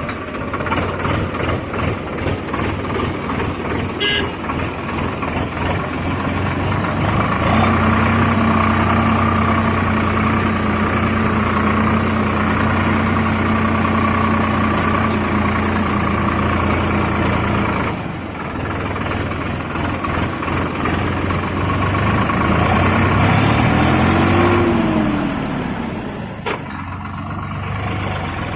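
Tractor engine sound running steadily with a low drone. A held steady tone joins it for several seconds, and a short tone that rises then falls comes near the end.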